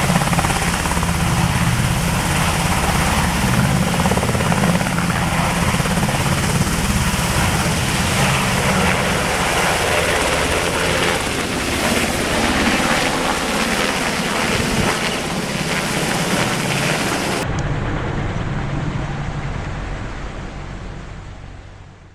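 Sikorsky S-92 helicopter running loud and steady, with a deep rotor chop under the turbine noise; the sound fades out near the end.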